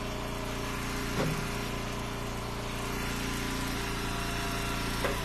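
Gas engine of an Eastonmade Ultra log splitter idling steadily, with one faint knock about a second in.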